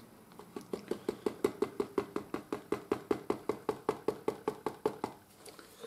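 Rapid, even tapping on an upturned plastic measuring jug, about six or seven hollow taps a second for some four seconds, knocking the last old fork oil and its settled sediment out onto a card.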